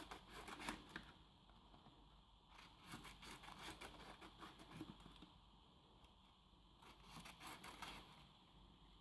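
Faint scraping and snipping of thick cardboard being cut into strips, in three short spells.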